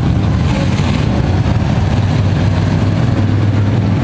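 Engines of a field of Thunder Truck race trucks running together at low speed, a steady sound with no revving.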